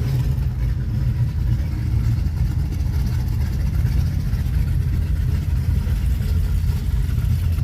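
Car engines running with a steady low rumble, as cars cruise slowly by.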